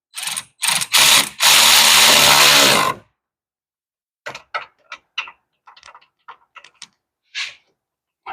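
Power impact wrench firing in three short bursts, then one longer run of about a second and a half, driving a bolt on the hub assembly. After it stops, a string of light clicks and taps.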